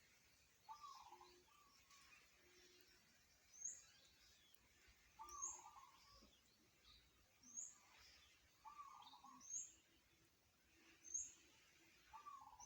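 Birds calling: a short, high, upswept note repeated about every two seconds, and a lower call of about half a second recurring every few seconds, over faint background noise.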